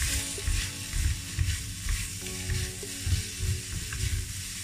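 Chicken and vegetables sizzling in a hot wok while being stirred and tossed with wooden spatulas, with repeated knocks and scrapes of wood against the pan.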